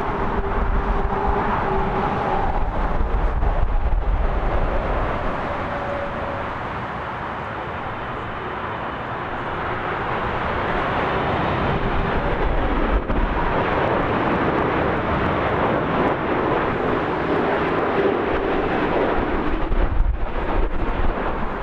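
Airliner's jet engines making a loud, continuous rushing noise as an aircraft passes. It eases a little about a third of the way in and builds again through the second half.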